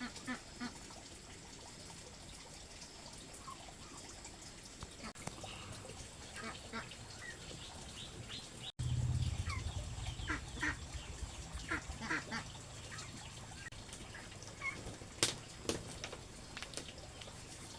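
Birds calling, many short scattered calls. After an abrupt break about nine seconds in, a low rumble comes in and fades over several seconds.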